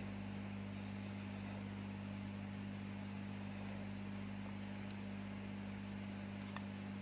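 Steady electrical mains hum from the workbench equipment, with two faint clicks near the end.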